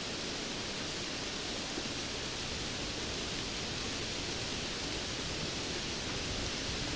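Steady rainfall, an even hiss of falling rain with a few faint drop ticks.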